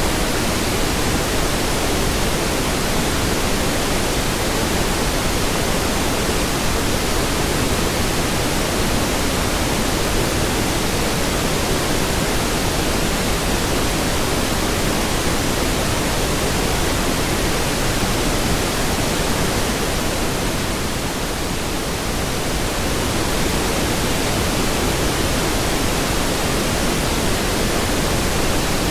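Steady pink noise, an even full-range hiss, dipping slightly in level for a couple of seconds about three quarters of the way through.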